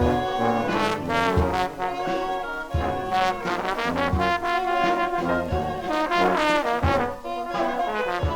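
Dixieland jazz band playing, trombone and trumpet to the fore, over a low beat that falls about every second and a half.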